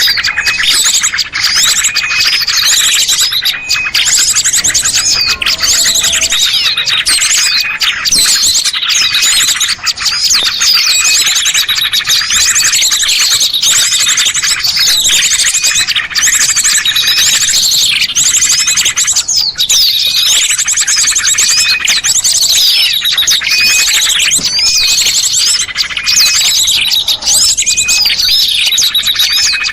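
A dense chorus of small songbirds chirping and twittering, many calls overlapping, with rapid high trills repeating throughout. It is a bird-lure (pikat) recording, played to draw small birds down.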